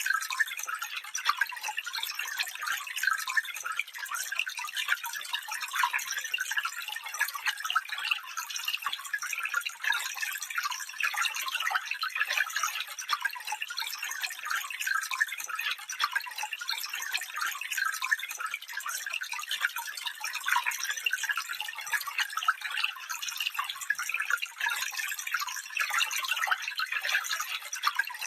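Water of a small stream running over stones, a steady trickling and babbling with quick bright splashes and no deep rumble.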